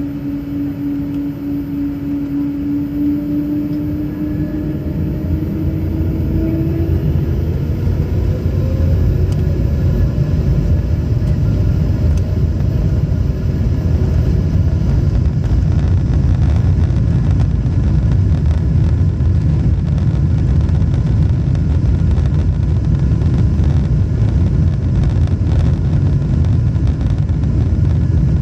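Jet airliner engines heard from inside the cabin: a whine rises in pitch over the first several seconds as the engines spool up to takeoff thrust, and then gives way to a loud, steady low rumble of the engines and the takeoff roll.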